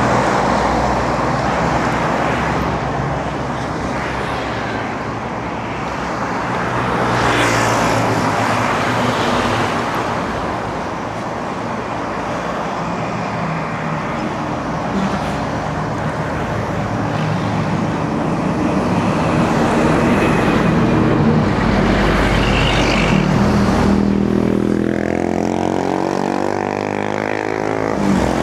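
Road traffic passing close by, with car and motorcycle engines and tyre noise swelling and fading as vehicles go past. Near the end, a nearby engine rises steadily in pitch as it accelerates.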